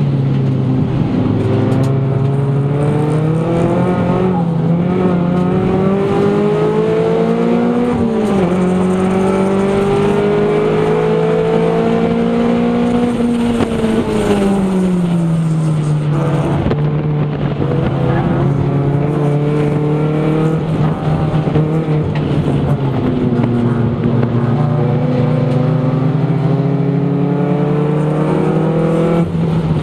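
Toyota Celica GT's four-cylinder engine heard from inside the cabin, driven hard through an autocross course. Its revs climb steadily, drop sharply about eight seconds in, climb again, fall off over a couple of seconds around the middle, hold, then rise once more near the end.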